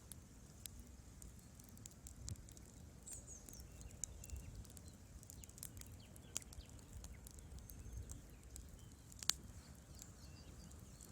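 Wood fire crackling: irregular sharp pops and snaps over a low steady rumble, with one louder pop about nine seconds in.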